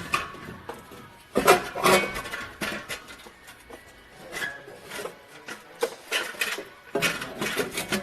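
Clicks, knocks and rubbing of hands working the O2 sensor and its wiring lead loose in an engine bay, in irregular clusters: a busy stretch about one and a half seconds in and another near the end.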